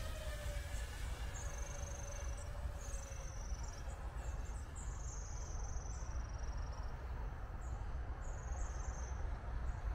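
High-pitched, short calls of a small bird, each a quick rise then a fluttering downward slide, repeated about once a second, over a steady low rumble of wind on the microphone.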